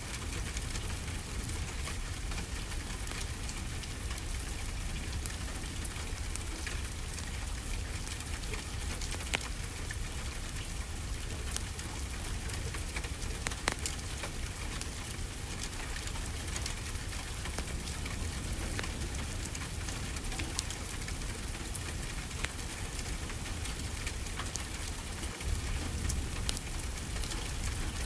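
Steady rainfall with scattered sharp crackles and pops from a wood fire.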